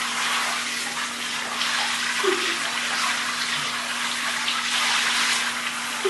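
Water running in a steady, hissing spray that swells and eases, over a low steady hum.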